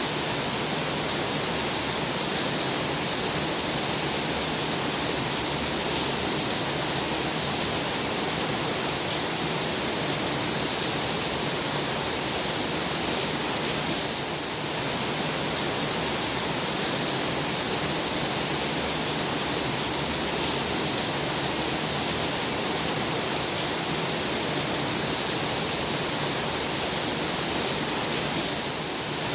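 Heavy rain falling steadily, a dense even hiss, easing very slightly for a moment about halfway through.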